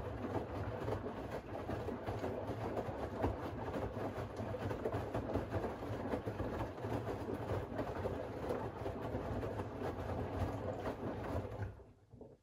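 Siemens iQ700 WG56B2090 front-loading washing machine's drum turning through a wash cycle, with laundry and water tumbling and a steady low motor hum. The sound stops abruptly near the end.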